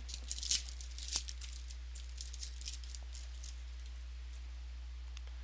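Trading cards being handled: a few quick rustles and clicks of cards sliding and flipping in the first second or so, then faint scattered ticks. A steady low electrical hum runs underneath.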